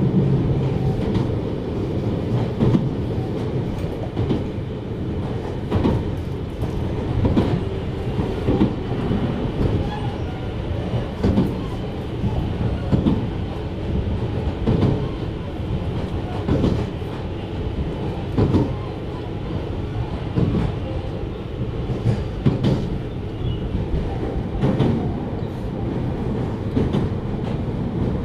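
Running sound inside a JR Hokkaido 733 series electric multiple unit under way: a steady low rumble with wheels knocking over rail joints every second or two.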